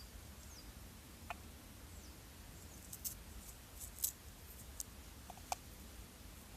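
Small knife slicing a garlic clove into thin rings: a handful of faint, crisp clicks at irregular intervals as the blade cuts through.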